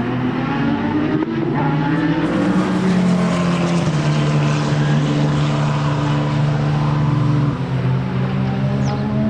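Racing car engine running hard on track, its pitch holding fairly steady with shifts about four seconds in and again near the end, then climbing gently.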